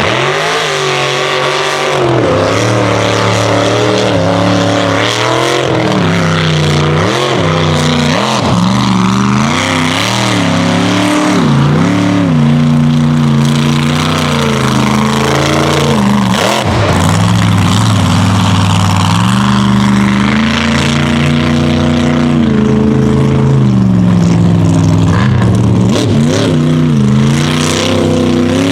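Unlimited-class mega truck engine revving hard, its pitch climbing and dropping again and again.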